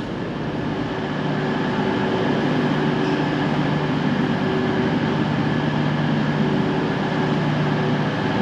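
CrossCountry Voyager diesel multiple unit's underfloor diesel engines running with a steady hum, getting a little louder about a second in.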